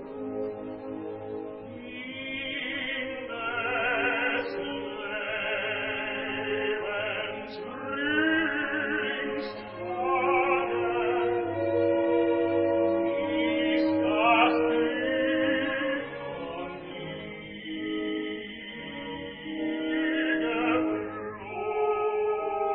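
Operatic tenor singing with wide vibrato over an orchestra, with sustained orchestral chords beneath.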